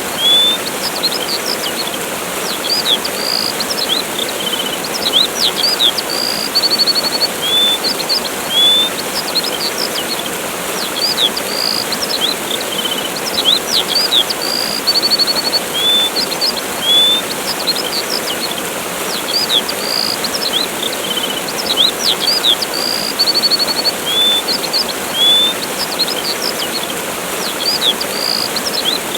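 Waterfall rushing steadily while songbirds chirp throughout: short rising whistles, quick sharp chirps and brief buzzy trills, the same phrases coming round again every several seconds.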